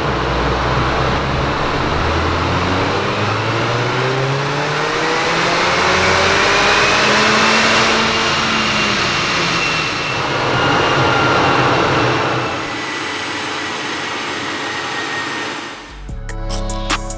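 Mercedes-AMG CLA45's turbocharged four-cylinder engine accelerating under load on a chassis dyno through a REMUS cat-back sports exhaust. Its pitch climbs steadily for several seconds, then falls away as the engine comes off load and winds down. Music with a beat comes in near the end.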